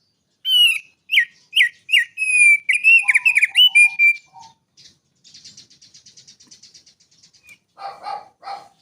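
Prenjak gunung, a prinia, singing: a run of loud whistled notes with quick downward slurs, then a fast high rattling trill, and a few harsher calls near the end.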